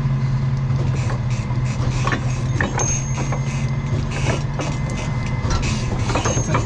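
Tow truck's engine idling steadily, driving the hydraulics, while its wheel-lift forks and boom gear give scattered metallic clicks and clanks.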